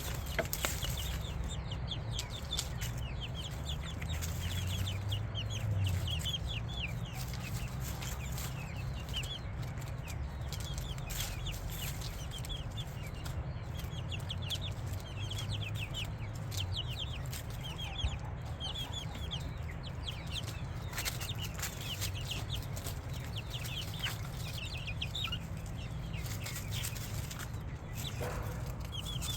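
Chickens chirping and clucking, a dense scatter of short, high, falling calls, over a steady low rumble.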